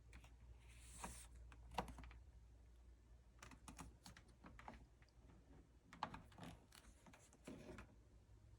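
Faint, irregular clicks and taps over a low steady hum, with a short soft rushing noise about a second in and another near the end.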